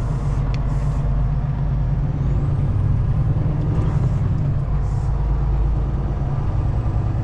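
Semi truck's diesel engine running steadily at low speed under a heavy load, heard from inside the cab as a continuous low rumble.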